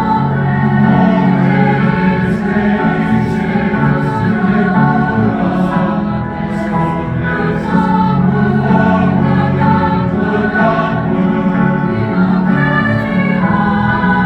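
Honor choir singing in many parts, holding and shifting sustained chords with crisp sung consonants.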